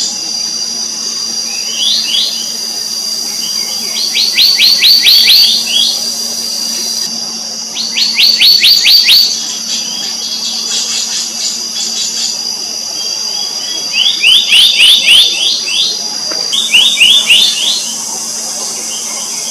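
Black-naped monarch calling in quick runs of sharp, ringing notes, about five runs of six to ten notes each, with pauses between. A steady high whine sounds underneath.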